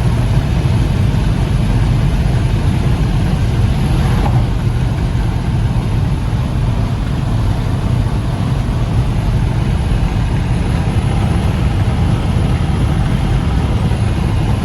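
Steady, loud low rumbling noise with a hiss above it, running unbroken and without any distinct events.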